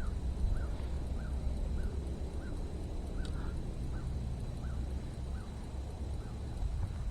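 Wind rumbling on the microphone, with a bird calling a regular series of short notes, about one every two-thirds of a second, slowing a little toward the end.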